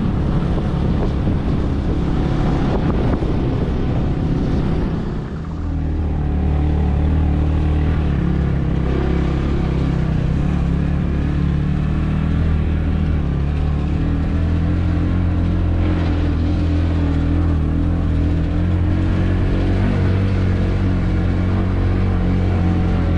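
Motorbike engine running under way, rough and gusty at first; after a brief dip about five seconds in it settles into a steady hum at constant revs.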